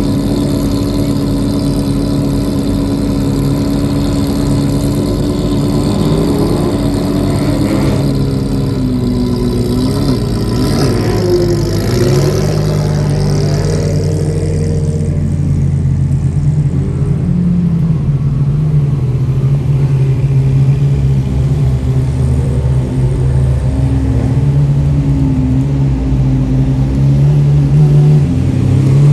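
Supercar engines running steadily at low road speed, their pitch shifting now and then, with a rev rising in pitch near the end.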